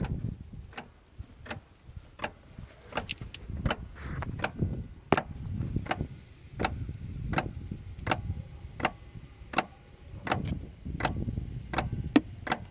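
2006 Dodge 3500 diesel pickup making a regular knocking click, about one and a half a second, each with a low thud, while it fails to start after its batteries went dead.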